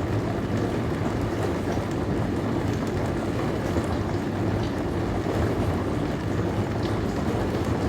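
Dishwasher running: a steady rush of spraying water over a low hum, with a few faint light ticks.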